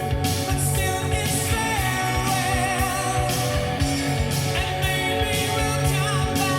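Rock song with a singer and a steady drum beat, played back through a car's upgraded audio system with Technics tweeters, FaitalPRO midrange and midbass speakers, Pioneer head unit and processor and Luxman amplifiers, heard inside the cabin.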